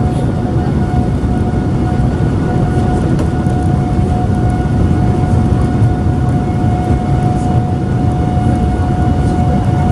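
Boeing 787 Dreamliner's jet engines heard from inside the cabin: a loud, steady rumble with a constant hum over it.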